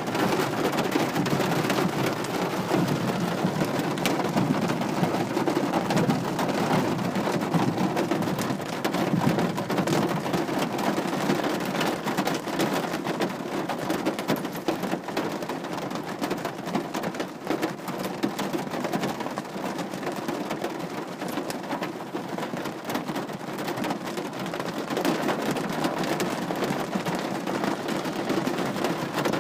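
Steady rain falling, a continuous hiss dotted with the patter of individual drops striking a surface, a little heavier in the first several seconds.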